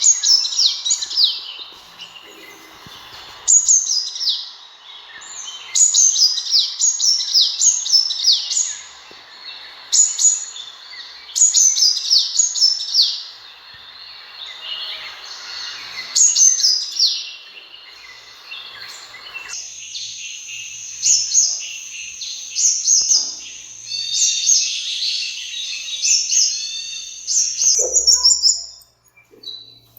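Sunbird calling: bursts of rapid, high-pitched chirps falling in pitch, repeated in short phrases every second or two. About two-thirds of the way through, the background hiss drops out and a thinner, steadier high twittering goes on.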